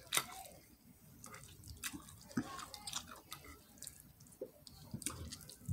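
A person chewing food with the mouth close to the microphone: scattered small wet clicks and lip smacks.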